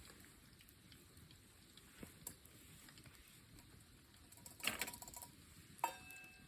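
Quiet pause with a few small clicks and knocks and a short rustle, then a sharp clink near the end that rings briefly.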